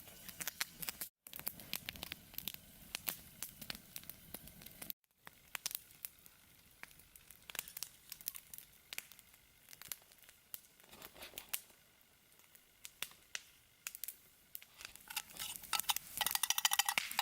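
Wood campfire crackling with irregular sharp pops. Near the end a denser sizzling sets in.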